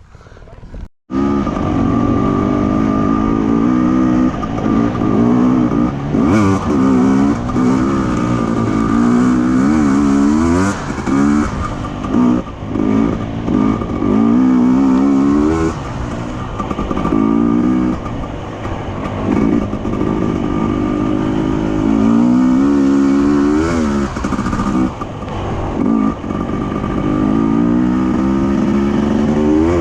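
Enduro motorcycle engine revving hard, its pitch climbing and dropping again and again as the throttle is worked. It cuts in after a brief dropout about a second in.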